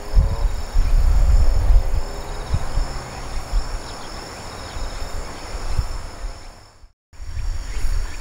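Gusts of wind rumbling on the microphone over a steady high trilling of autumn crickets. The sound cuts out abruptly for a moment about seven seconds in, then wind and insects resume.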